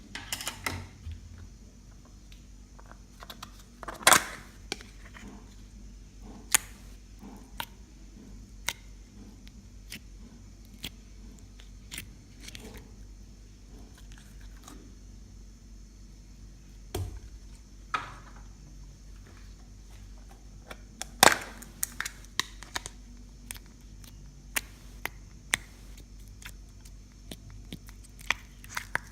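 Slime being kneaded and squeezed by hand, giving irregular sharp clicks and pops as air pockets burst. The loudest pops come about four seconds in and again about twenty-one seconds in.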